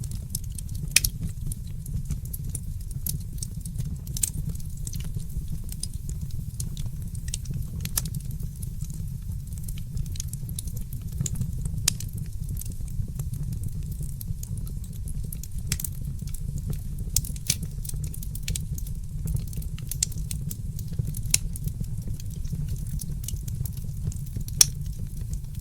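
Fireplace fire crackling, with irregular sharp pops over a steady low rumble; the loudest pops come about a second in and near the end.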